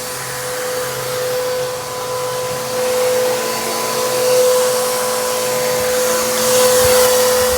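Bissell PowerTrak Compact vacuum cleaner running steadily, a constant motor whine over rushing air. Its owner calls the motor terrible.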